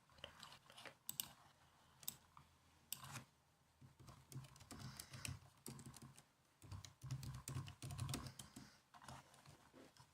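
Laptop keyboard being typed on: faint, irregular key clicks in quick runs, densest in the middle.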